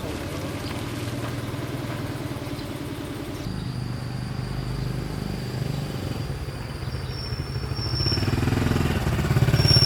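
Small vehicle engine running with a steady firing rhythm, the sound changing abruptly about three and a half seconds in and growing louder near the end.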